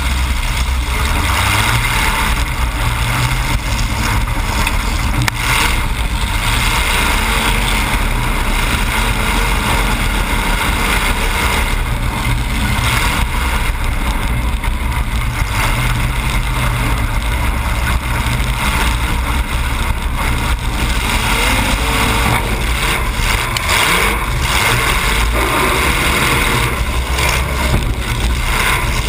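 Demolition derby car's engine running loud through open exhaust pipes that stick straight up through the hood, heard from inside the car.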